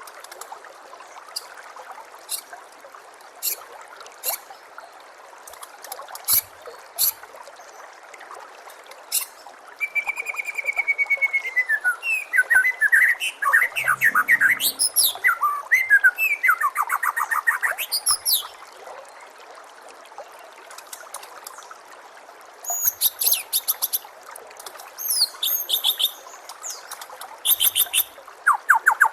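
White-rumped shama (murai batu) singing: sharp single clicks in the first several seconds, then bursts of rapid, varied whistled phrases and trills from about ten seconds in and again near the end. A steady trickle of running water sounds underneath.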